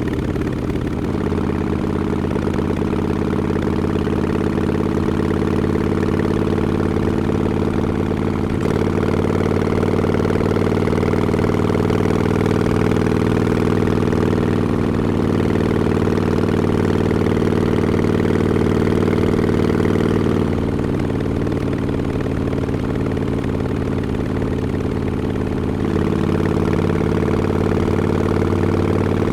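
Harley-Davidson XL1200X Forty-Eight's air-cooled V-twin running steadily through Vance & Hines Short Shots exhaust with quiet baffles, its note shifting a few times with the throttle.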